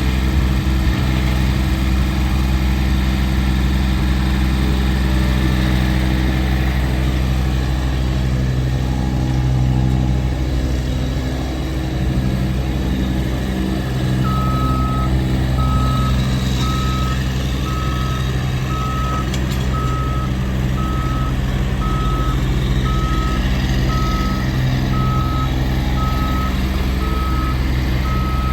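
Massey Ferguson GC1723EB tractor's diesel engine running steadily. About halfway through, a high-pitched alarm starts beeping about once a second, the typical pattern of a backup warning beeper.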